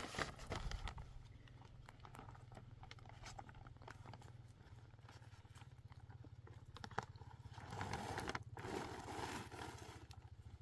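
A faint, steady low hum with a fast, even flutter, broken by scattered light clicks and knocks, and a brief rustling noise about eight seconds in.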